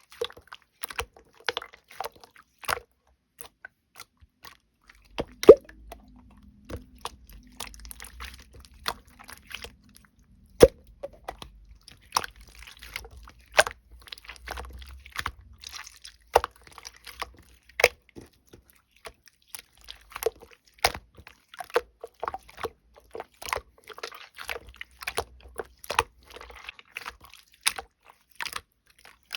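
Slime being squished and pressed by hand, giving a steady stream of irregular sharp clicks and pops.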